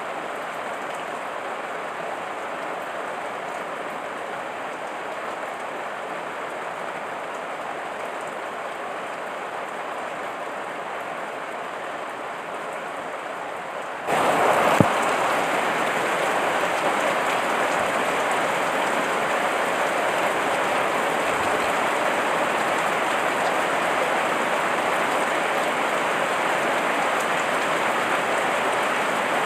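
Heavy rain falling steadily as a dense, even patter. About halfway through it abruptly becomes louder and fuller, and a single sharp tap sounds just after the change.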